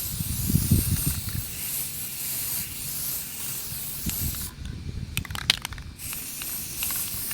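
Aerosol spray paint can hissing in two long bursts, with a short pause and a few clicks between them about five seconds in. There is a low rumble near the start.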